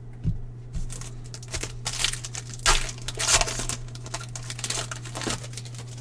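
Plastic-foil card pack wrapper crinkling and tearing as a pack is opened, in a run of irregular rustles, over a steady low electrical hum.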